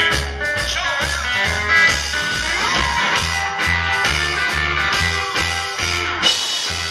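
A live rock and roll band playing: electric guitar, drums and bass, with the bass sounding a note on every beat, a little over two a second.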